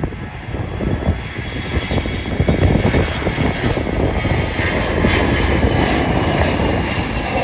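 Airliner's engines passing close by: a loud, steady rumble with a high whine of several steady tones over it, growing a little louder after a couple of seconds.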